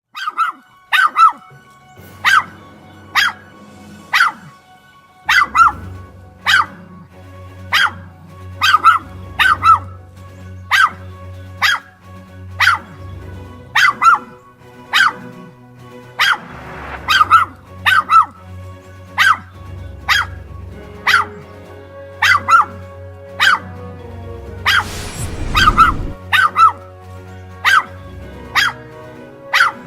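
A dog barking on and on, single sharp barks about once a second with hardly a pause, over music with low notes. A short burst of rushing noise comes about 25 seconds in.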